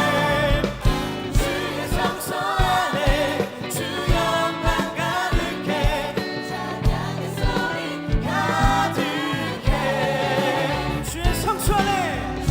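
Contemporary Christian worship song: several voices singing together over a full band, with a steady drum beat.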